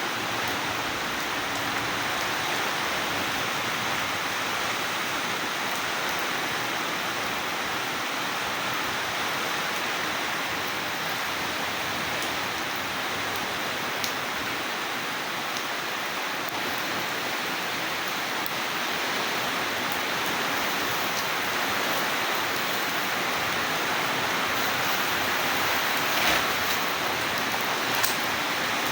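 Steady rain falling, an even hiss, with a few sharp drip taps, two of them near the end.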